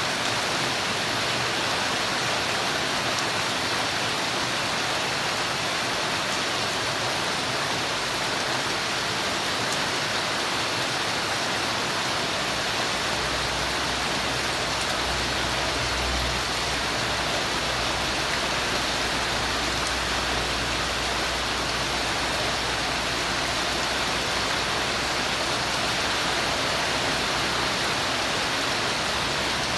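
Steady rainfall: an even, unbroken rush of rain. A faint low rumble comes in about halfway through, swells and then fades away.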